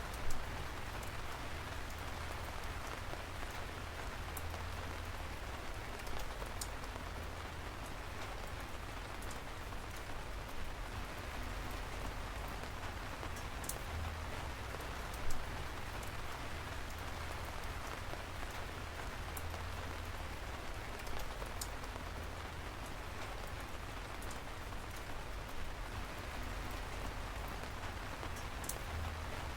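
Steady rain falling on a surface, an even hiss with now and then a louder single drop ticking sharply.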